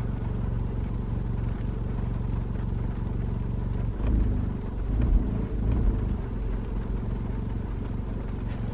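VW MK7 GTI's turbocharged 2.0-litre four-cylinder idling, heard from inside the cabin, with a chattering that the owner takes for clutch chatter. A louder low rumble swells briefly about four to six seconds in.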